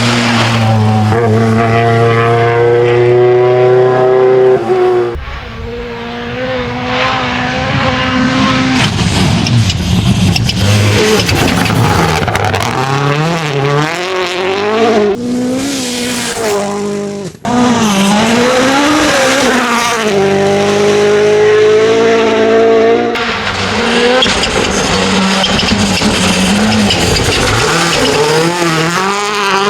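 Hyundai i20 N Rally1 rally car driven flat out on gravel, its turbocharged four-cylinder engine revving hard, climbing through the gears and dropping back on lifts and shifts, over a steady noise of tyres on loose gravel.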